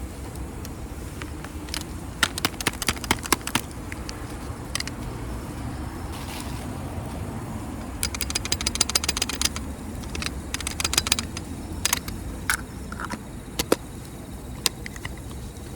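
Wood fire crackling in a FIREBOX stove, with irregular clusters of sharp pops and snaps over a steady low rumble.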